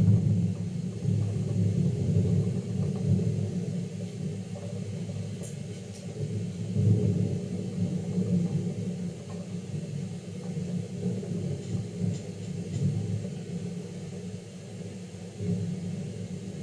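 Thunder rolling in a long low rumble that swells and fades in waves, loudest at the start and building again about seven seconds in.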